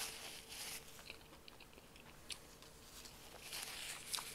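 Faint, close-miked chewing with small mouth clicks, and a paper napkin rustling as hands are wiped, once at the start and again near the end.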